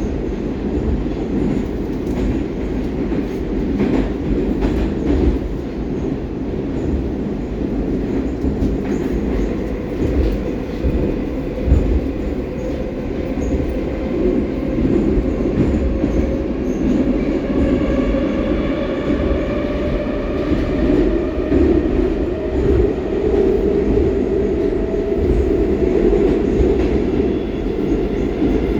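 Steady loud rumble of a Baltiets metro train running through the tunnel, heard from inside the car. From about 17 seconds in, a high whine made of several tones joins it and slowly rises in pitch.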